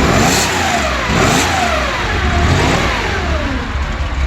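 Porsche 911 flat-six engine, just cold-started and still warming up, revved several times in quick succession: the pitch rises and falls repeatedly over its idle, with no smoke from the exhaust.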